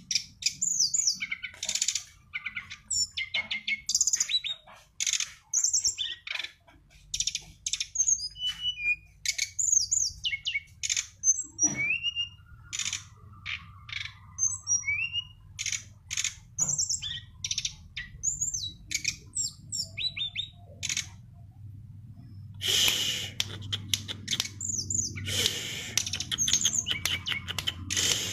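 A songbird singing a fast, varied stream of short whistled notes and chirps, many sliding up or down in pitch, with harsher scratchy phrases about two-thirds of the way in and near the end. A faint low hum runs underneath.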